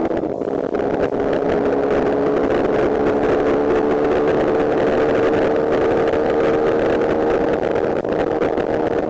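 200 cc motorcycle engine running hard at high revs, its pitch climbing slowly and steadily.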